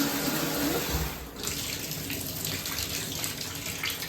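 Water running from a bathtub/shower faucet, a steady rush, with a low steady tone under it that stops just under a second in.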